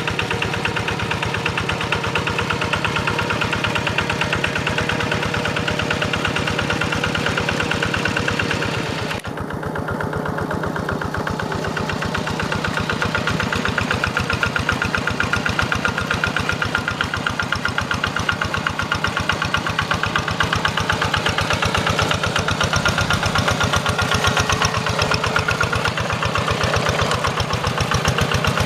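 Quick G1000 hand tractor's single-cylinder diesel engine running steadily with a fast, even chugging. It eases briefly about nine seconds in, then picks up again.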